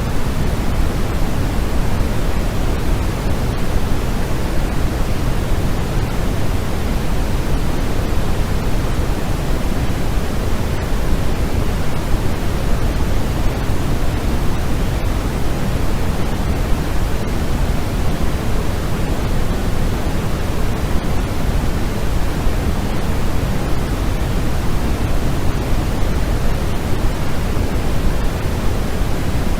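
Steady white-noise sleep track: an even, unbroken hiss with most of its weight in the low end, like pink noise.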